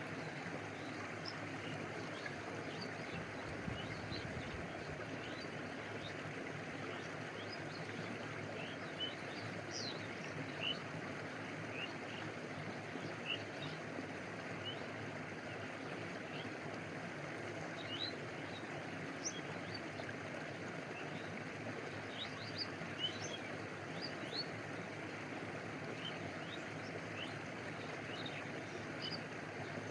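Stream water flowing and lapping, a steady even rush, with short high-pitched blips scattered over it.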